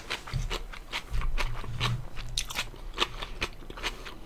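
Someone biting and chewing crispy fried chicken close to the microphone, the batter giving several sharp crunches a second, with a low muffled rumble underneath for the first two seconds.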